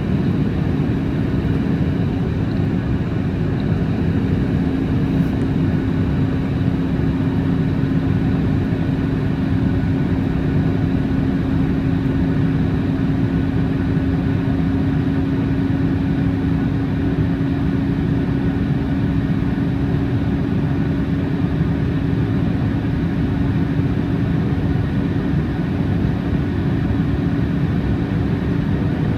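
Steady cabin drone of a Boeing 737 MAX 8 in flight: the CFM LEAP-1B turbofans' constant hum over a rush of airflow, with no change in pitch or level.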